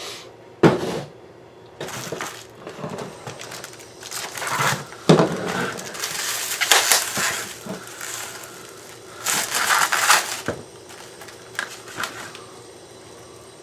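Firework shells and their packaging being handled: crinkling, rustling and knocking, with two sharp knocks, one about a second in and one about five seconds in.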